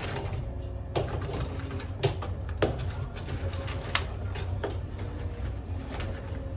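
Wood fire crackling in a pizza oven as it is being lit, with about five sharp snaps over a steady low rumble.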